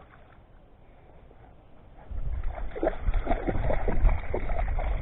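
Dog wading and splashing in shallow water, starting about two seconds in with irregular sloshes, over a low rumble on the microphone.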